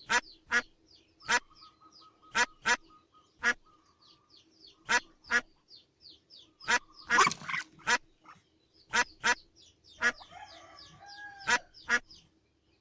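Duck quacking repeatedly in short, sharp, irregularly spaced calls, with faint high chirping underneath.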